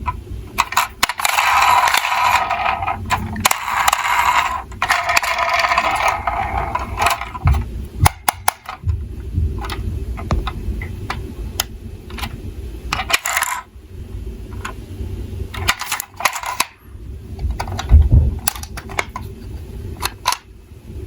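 Small metal die-cast toy cars clinking and clattering against each other and a hard surface, with two longer stretches of rattling in the first seven seconds and scattered sharp clicks after.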